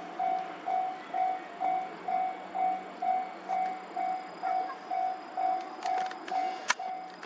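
Railway level-crossing alarm ringing, a single repeated tone about twice a second, warning of an approaching train. A sharp click near the end.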